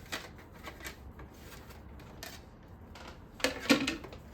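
Small clicks and knocks of plastic Roomba parts being handled and fitted together, with a louder clatter about three and a half seconds in.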